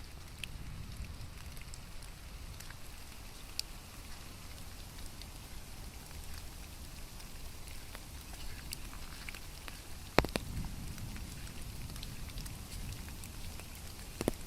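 Steady rain with scattered drops ticking on surfaces, and one sharp louder tap about ten seconds in.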